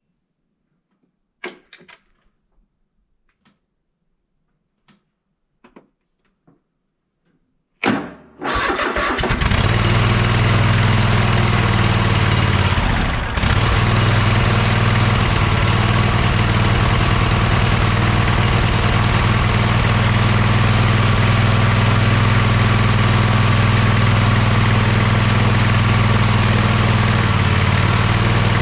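A few light clicks and knocks, then about eight seconds in the Craftsman Pro Series riding tractor's engine cranks briefly and catches on a cold start, running steadily with a brief dip about five seconds later. The quick start without a jump shows the old battery, kept up by a float charger, still holds enough charge.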